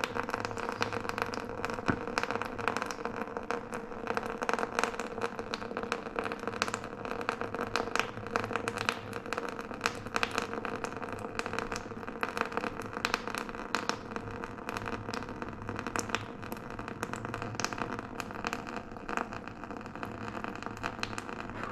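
Irregular metallic clicking, rattling and scraping of hand tools and parts being worked during a two-stroke dirt bike engine teardown, over a steady low hum.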